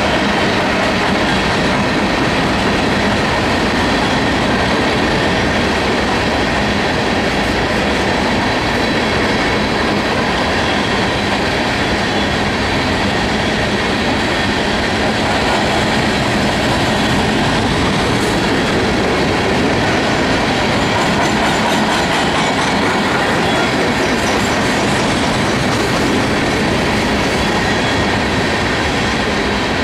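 Loaded-or-empty coal hopper cars of a freight train rolling past: steel wheels on the rails giving a steady rolling noise with clickety-clack over the rail joints.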